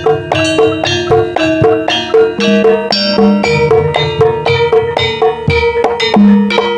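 Javanese gamelan music in the Banyumas ebeg style: tuned metal percussion struck in a steady, even rhythm of several notes a second, with ringing tones and low notes coming and going underneath.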